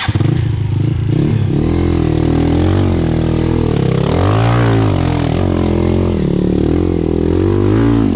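Off-road vehicle's engine revving hard under load, coming in suddenly at the start, its pitch rising and falling again and again as it claws its way up a climb.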